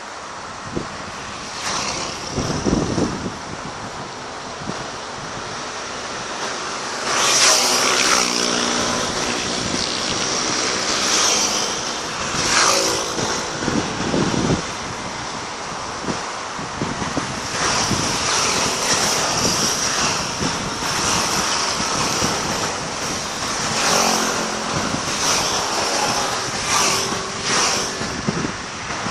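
Fireworks going off over a steady noisy backdrop, with a sharp bang every few seconds.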